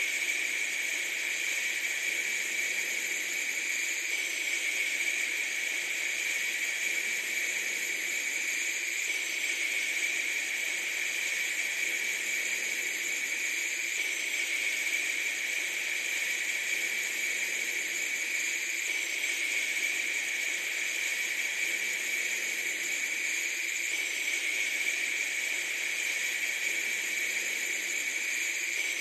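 Steady hissing noise with no breaks, strongest in a high band, repeating itself about every five seconds like a loop.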